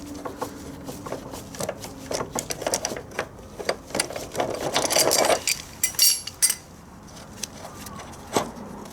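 Rapid runs of mechanical clicking and metal clanking from hand tools working on a push mower's engine and frame, with a few separate sharp metal knocks near the end.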